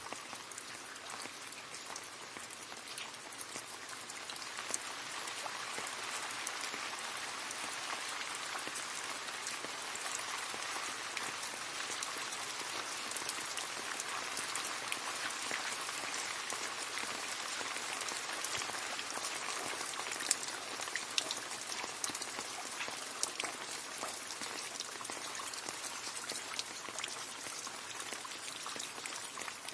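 Steady rain falling into a puddle, a dense patter of drops splashing on water, growing a little heavier after a few seconds and easing slightly near the end.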